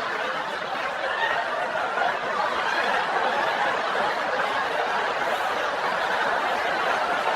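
A crowd laughing, steady and continuous.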